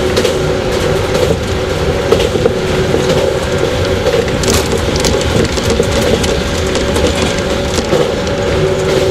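Running sound inside a JR 115 series electric train's motor car at steady speed: a low rumble with a steady, unchanging whine, and scattered clicks of the wheels on the rails.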